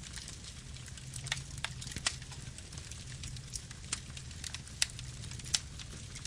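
Campfire burning: a steady low rumble of the flames with irregular sharp crackles and pops from the burning wood, about a dozen in a few seconds.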